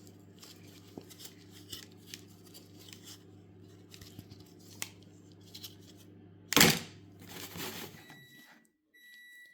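Handling noise from a lacing craft toy being taken apart: soft scratchy ticks and rustles of lace and pieces, with one loud rustling burst about two-thirds of the way in. Near the end the background hum stops and a steady electronic beep sounds in short repeated stretches.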